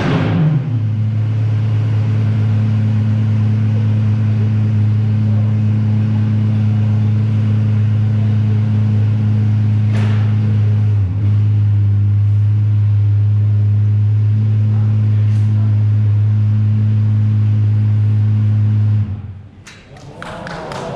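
Apollo IE hypercar's V12 engine settling from a rev into a steady idle, a deep even hum. There is a brief dip about halfway through, and the hum stops about two seconds before the end.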